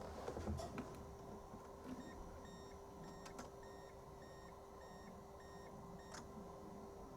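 A string of short, faint electronic beeps repeating evenly for about four seconds over a steady hum, with a few sharp clicks.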